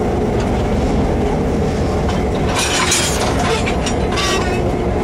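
Train rolling, heard from between the cars at the coupler: a steady rumble of wheels on rail under the drone of the nearby CF7 diesel locomotive. Two brief bursts of high-pitched noise come about two and a half and four seconds in.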